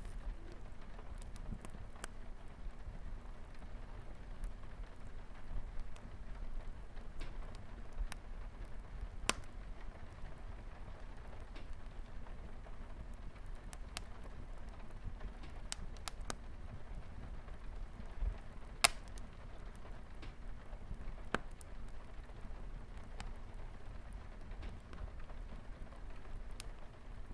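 Wood fire crackling with scattered sharp pops, the loudest about two-thirds of the way through, over a steady hiss of light rain on a window.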